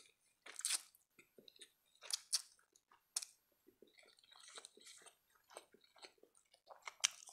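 Close-miked chewing of a mouthful of spaghetti, with irregular wet mouth smacks and clicks.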